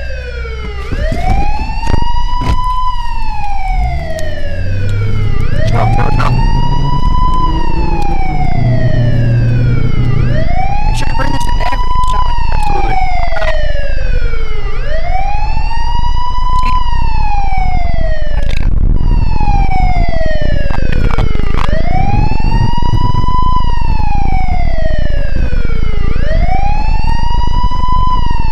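Wailing siren, each cycle rising quickly in pitch and then falling slowly, repeating about every four and a half seconds.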